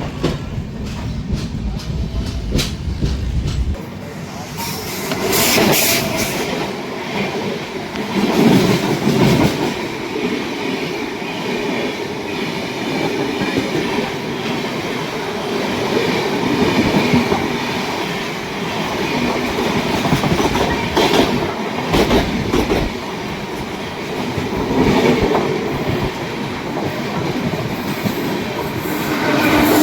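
Passenger train of the 22731 Hyderabad–Mumbai Express running at speed: a steady rumble of coaches on the track, with scattered clatters as the wheels pass over rail joints.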